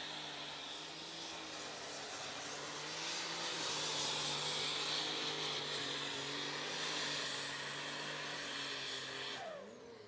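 Methanol-burning unlimited super stock pulling tractor's engine running hard under load during a pull: a steady, high drone with a hiss above it. It falls away in a descending wind-down about nine and a half seconds in.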